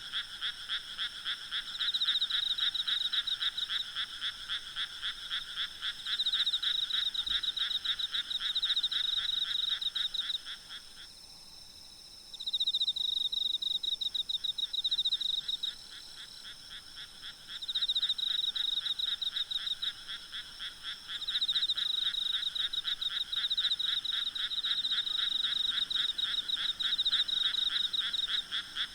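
A chorus of frogs calling in long trains of rapid, evenly spaced croaks. The calling drops away twice for a second or two, then starts up again. Under it runs a faint, steady, high drone of insects.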